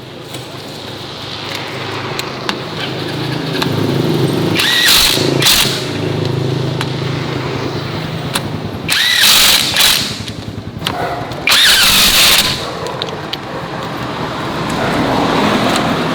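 Farm vehicle's engine running steadily, with several loud noisy bursts about a second long over it.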